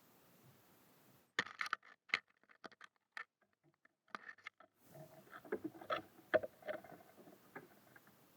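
Birds feeding at a bird feeder: irregular sharp taps and clicks of beaks pecking at seed and feet landing on the feeder, in two busy spells, the second with some rustling.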